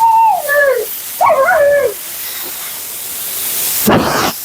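Siberian husky vocalizing: two wavering calls, each falling in pitch, over the steady hiss of a high-velocity pet dryer. Near the end there is a short, loud rushing burst.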